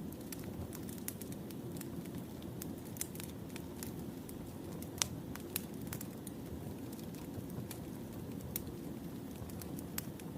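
Wood fire burning: a steady low rush of flame with irregular sharp crackles and pops of burning logs, one louder pop about halfway through.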